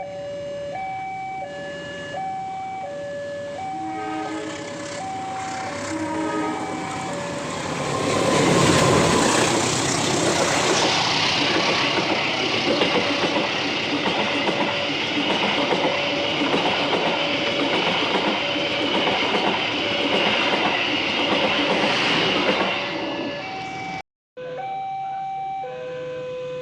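Railway level-crossing alarm sounding a repeating two-tone signal, high then low, about once a second. From about eight seconds in, a train passes close by, loud and rattling on the rails for some fifteen seconds while the alarm keeps going, then fades as the train clears.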